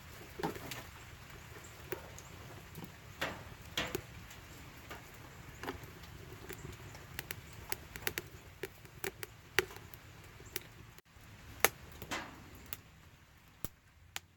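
Small dry sticks and kindling snapping and crackling in irregular, sharp cracks, with one loudest snap about three quarters of the way through.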